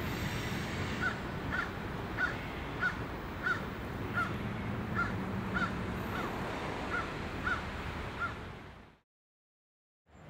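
Low rumble of a freight train going away into the distance, with a bird calling about a dozen times in a steady series of short calls roughly half a second apart. Everything fades out to silence near the end.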